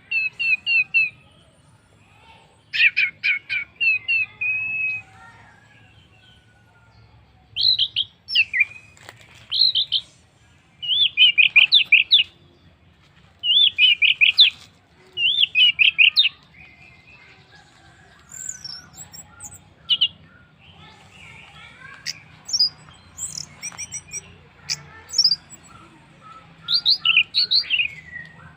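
Orange-headed thrush singing: short phrases of rapid, repeated whistled notes, each about a second long, with pauses between, and scattered higher notes in the second half. It is a song used as a lure to get other birds singing.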